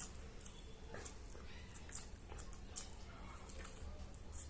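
A person eating close to the microphone: chewing with small, irregular wet mouth clicks and smacks.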